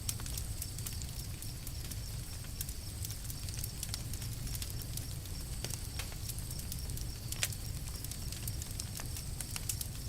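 Campfire crackling: irregular sharp pops and snaps, a few louder ones, over a low steady rumble.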